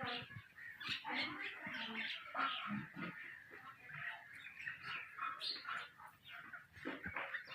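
Songbirds singing and chirping together, a dense run of many short overlapping notes.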